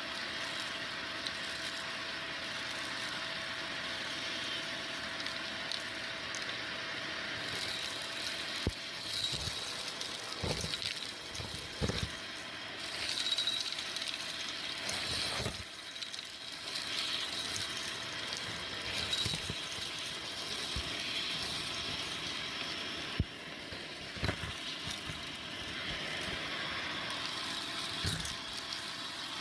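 Vacuum cleaner running steadily while it sucks at balloons, with scattered irregular thumps and rattles and one sharp crack about 23 seconds in.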